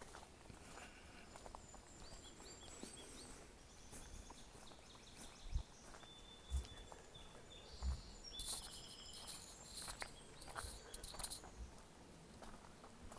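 Small birds chirping in short high notes, in two spells, over a few dull footsteps of someone walking.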